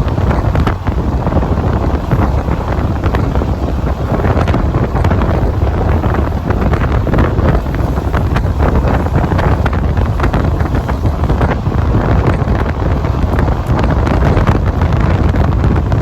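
Wind buffeting the microphone over the running noise of a moving passenger train, a loud steady rush with many small knocks from the coach on the track.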